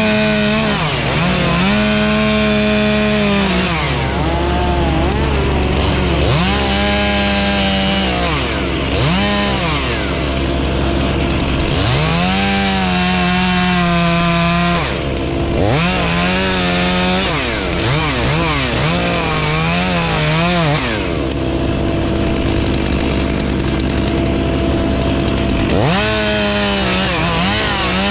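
Chainsaw running and cutting wood, its engine speed repeatedly climbing to full throttle, holding, then dropping back, about every two to four seconds. A steady low drone runs underneath.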